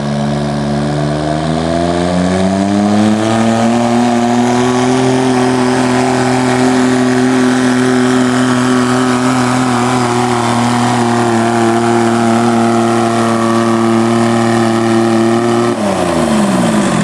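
Diesel garden tractor engine working hard under load on a pull. Its pitch climbs over the first few seconds, holds steady and high, then falls away sharply near the end.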